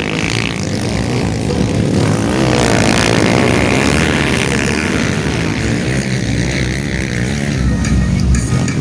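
Motocross motorcycle engines racing on the track, revving up and down as the bikes pass.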